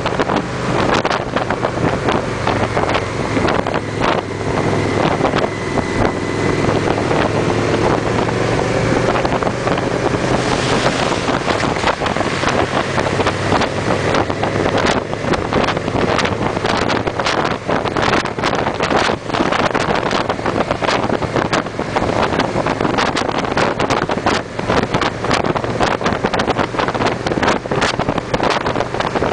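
Victory V-twin motorcycle engines running steadily at cruising speed in a group ride, with heavy wind buffeting on the microphone.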